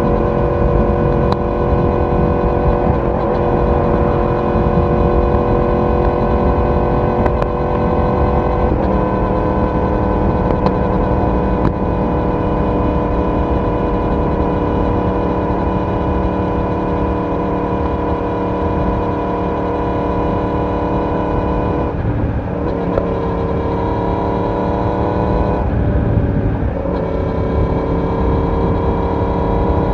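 Yamaha YZF-R1 inline-four motorcycle engine and exhaust cruising at a steady note. The engine pitch shifts about 9 seconds in, again around 22 seconds, and near 26 seconds, as the revs change with throttle or gear.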